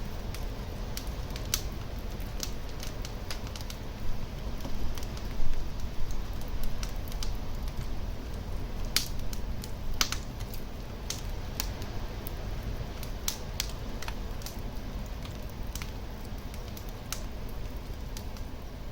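Wood fire burning in a fireplace: a steady low rumble of flames with irregular sharp crackles and pops, a few louder ones about four to six seconds in and around the middle.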